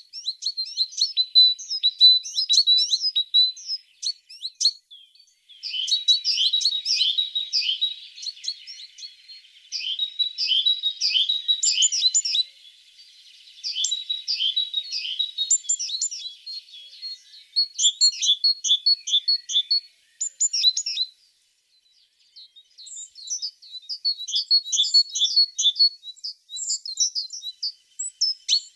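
Tits singing: phrases of quick, high chirping notes and trills a few seconds long, broken by short pauses, one of them near the end.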